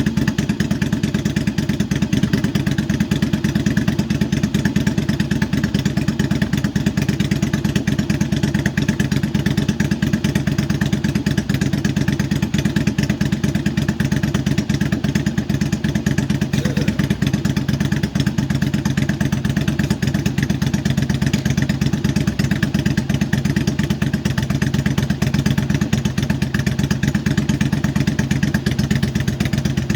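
Yamaha V-Star 1100 Classic's air-cooled V-twin idling steadily, warming up on its first start after sitting over the winter.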